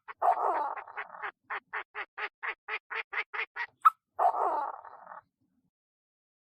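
Chinese francolin calling: a harsh rasping call, then a run of about a dozen quick, evenly spaced notes, then another harsh rasping call, each rasping call led by a sharp click.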